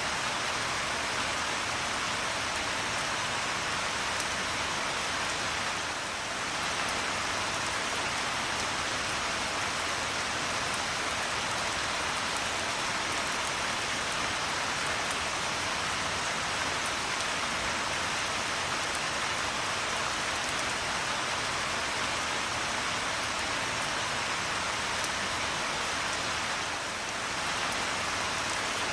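Steady rain falling, an even hiss of many drops, with a brief slight dip in level about six seconds in and again near the end.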